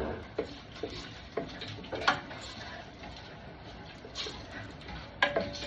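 Scattered light clicks and knocks of kitchen utensils and containers being handled at the stove, about half a dozen, the sharpest about two seconds in and near the end.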